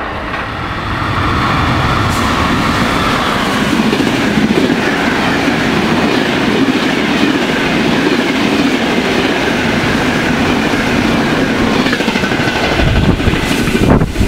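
A passenger train passing through the station at speed, close by. The noise builds over the first two seconds as it arrives, then holds steady and loud as the coaches go by.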